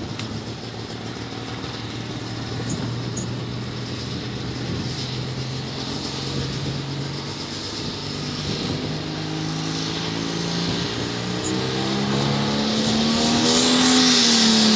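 Super stock pulling tractor's turbocharged diesel engine under load, climbing in pitch in steps and getting steadily louder, loudest near the end.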